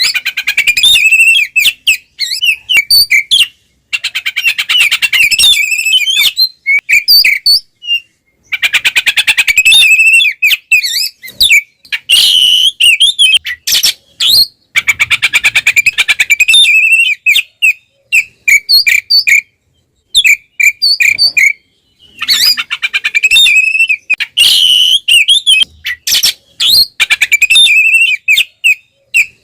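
Oriental magpie-robin (kacer) singing a loud, varied song in bursts separated by short pauses: clear whistled notes mixed with rapid trills and harsher notes. It is the bold 'ngeplong' fighting song of a male, the kind played to provoke other kacer.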